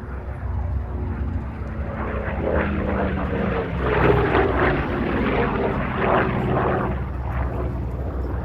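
Propeller airplane engine droning steadily, growing louder about two seconds in and easing off near the end.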